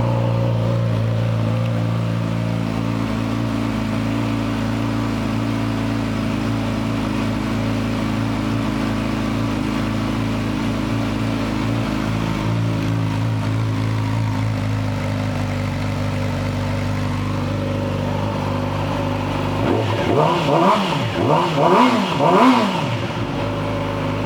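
2017 Yamaha YZF-R6's 599 cc inline-four idling steadily just after a start, fitted with a shorty exhaust. About twenty seconds in it is revved in a quick run of several throttle blips, each rising and dropping back, then it returns to idle.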